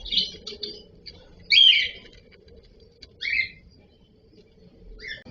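Cockatiels chirping and calling in short separate bursts, the loudest call about one and a half seconds in.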